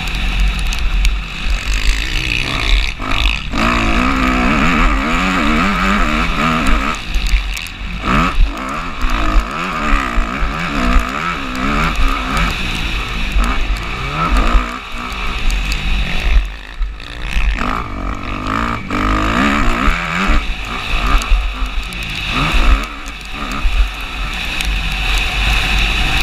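Motocross bike engine ridden hard round the track, revving up and falling back again and again every second or two, with brief dips where the throttle is shut.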